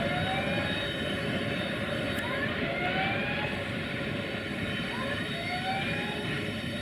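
Freight train running through the station: a steady rumble with a short rising whine that recurs about every two and a half seconds.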